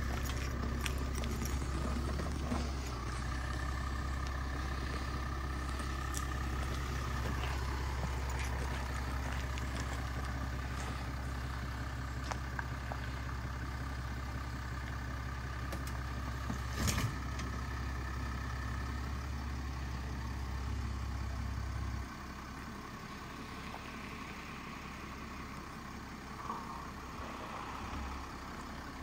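Range Rover Velar's 3.0 V6 running at idle while the SUV stands on a steep banking: a steady low rumble that drops away sharply about two-thirds of the way through, with a single sharp click near the middle.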